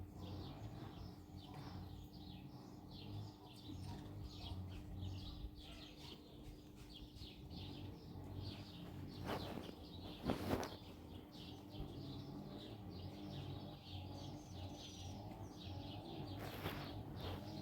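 Many small birds chirping at once, a busy, continuous stream of short high chirps over a steady low background hum. Two louder brief noises come a little past the middle.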